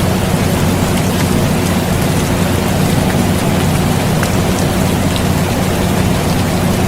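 Steady air conditioner hum, with a low drone at a few fixed pitches, mixed with continuous rain and scattered faint drop ticks.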